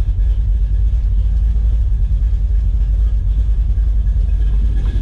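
Ford 460 big-block V8 with twin Holley carburettors on a tunnel-ram intake running steadily, a low rumble with a quick, uneven pulse.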